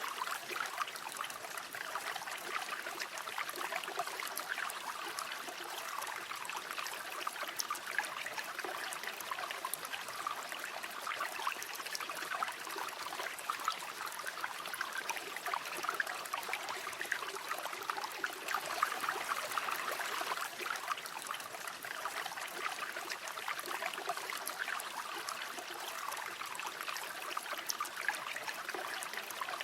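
A river or stream flowing steadily over stones, a continuous babbling and trickling of running water.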